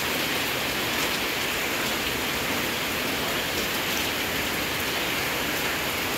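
Heavy rain pouring down steadily as an even hiss.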